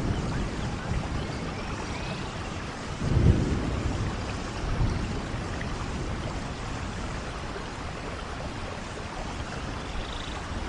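Steady heavy rain with thunder, two low rolling rumbles swelling about three and five seconds in.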